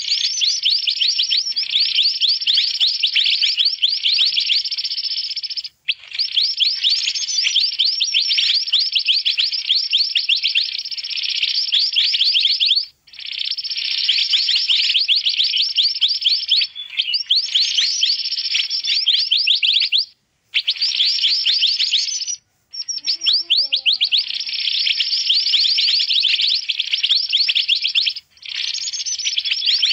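Burung mantenan birds chattering noisily: dense, rapid, high chirps in long unbroken bouts, each cut by a short pause. This is a bird-catcher's lure call.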